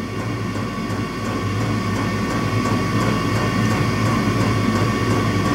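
Electric soldering gun buzzing steadily with its trigger held as it heats a solder joint on a heavy cable; the gun struggles to get hot enough for the job.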